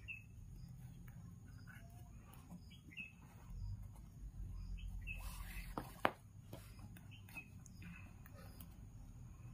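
Small birds chirping faintly in short calls every second or two, over the soft rustle of nylon macrame cord being pulled through knots. There is one sharp click about six seconds in.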